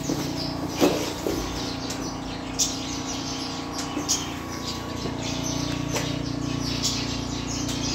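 Small birds chirping, short high calls coming irregularly every second or so, over a steady low hum.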